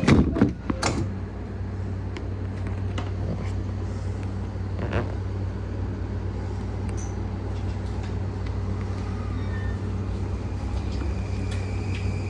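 Inside a JR East E235-series commuter train's motor car: a cluster of loud knocks in the first second, then a steady low hum from the car's running gear and electrical equipment under an even noise, with scattered light clicks.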